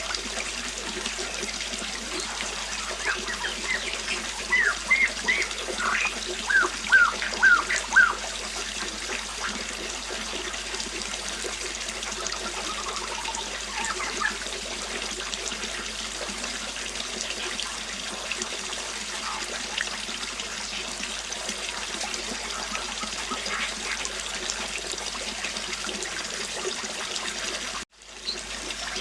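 River water flowing and trickling steadily, with small birds chirping: a quick series of short chirps a few seconds in, then occasional single calls. The sound cuts out for a moment near the end.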